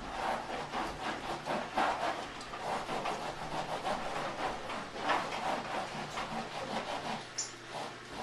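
Irregular scratchy rubbing and scraping, many rough strokes a second, going on steadily.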